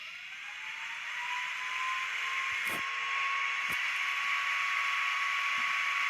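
Sound decoder in a Broadway Limited N scale GG1 electric locomotive playing its startup sequence through the model's small speaker: a whine that rises over the first two seconds and then holds steady over a constant hiss, with two sharp clicks near the middle.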